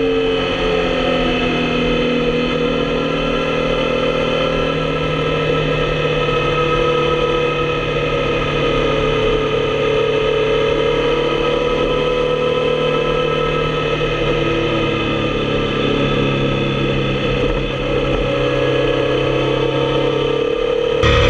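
Motorcycle engine running under way at a fairly steady speed. The note falls slightly at the start, then holds even, and grows a little louder near the end.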